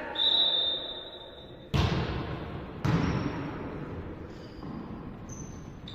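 Referee's whistle blowing one steady note for about a second and a half, followed by two sharp volleyball hits about a second apart, echoing in the sports hall.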